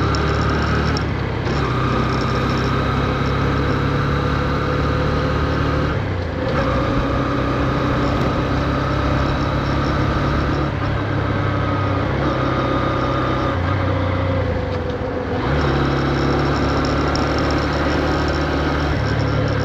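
Honda CB125F's 124 cc air-cooled single-cylinder engine under way, kept at low revs while the new engine is run in. Its note drops out briefly and changes pitch about a second, six and fifteen seconds in, as gears are changed, over a steady rush of wind and road noise.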